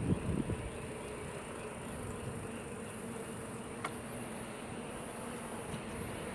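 Steady night chorus of calling frogs and insects, with a constant high-pitched trill, and a brief low rumble of wind or handling on the microphone in the first half second.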